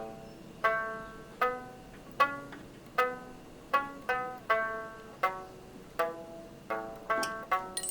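Background music of plucked string notes. A bright note sounds about every three-quarters of a second and rings away, with a quicker run of notes near the end.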